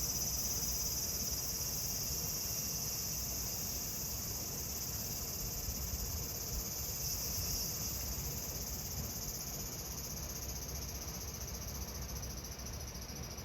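Cicadas buzzing in a steady, dense, high-pitched chorus that eases slightly near the end.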